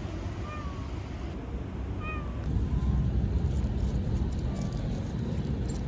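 A stray cat meowing, two short meows about half a second and two seconds in, over a steady low rumble.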